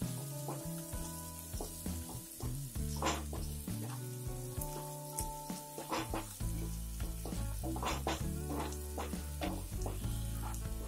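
Onion, green chillies, peanuts, chana dal and curry leaves sizzling in hot oil in a non-stick kadhai as a spatula stirs them, with a few short, sharp scrapes of the spatula against the pan.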